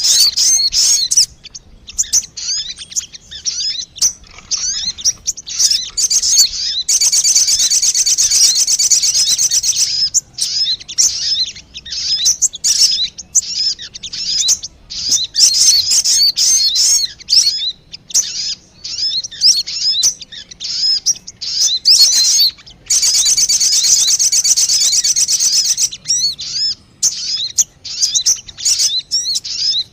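Lure recording of sogon bird calls: rapid, high-pitched chirps and twitters, thick with overlapping notes, with two stretches of dense continuous trilling, about seven and twenty-three seconds in.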